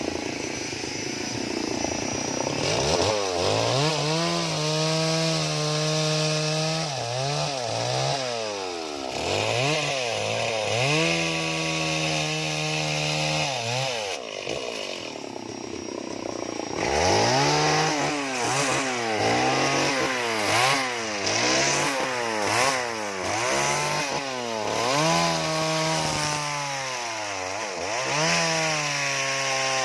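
Chainsaw carving wood, its engine revving up and dropping back again and again in short cuts, with a brief easing off about halfway through.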